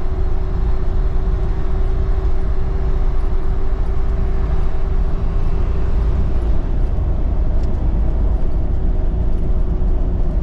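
Vehicle driving along, a steady low rumble of engine and road noise with a constant hum.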